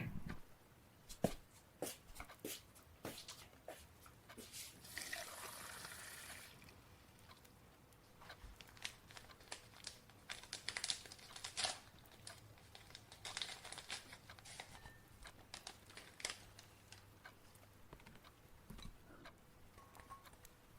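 Faint kitchen sounds of making a cup of tea: scattered clicks and knocks of cups and cupboards, a short rush of water about five seconds in, and a few brief rustles later on.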